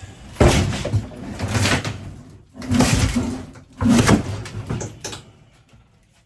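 A built-in RV interior fixture being wrenched loose by hand: three loud bouts of rattling, scraping and creaking, then it goes quiet near the end.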